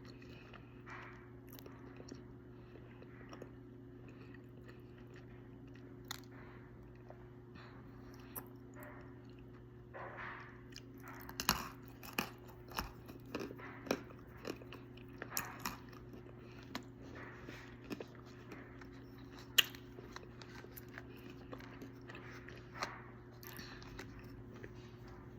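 Someone biting and chewing dry calaba clay (calabash chalk): sharp crunches, sparse at first, then coming thick and fast about halfway through, with the loudest snap near the end. A steady low hum runs underneath.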